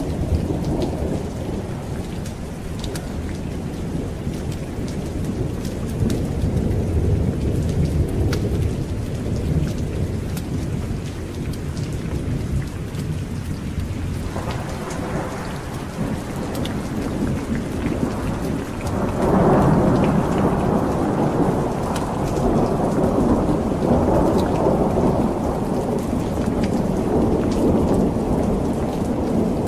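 Steady rain with continuous rolling thunder. The thunder swells louder about halfway through and again from about two-thirds of the way in.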